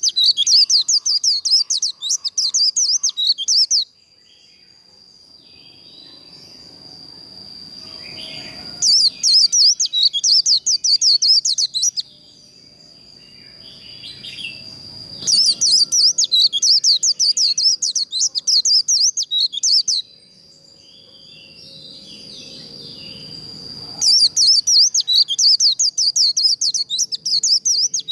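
White-eye singing its fast 'líu' fighting song: rapid high chirped warbles in bouts of three to five seconds, about four bouts, each preceded by a thin steady high note that slowly grows louder.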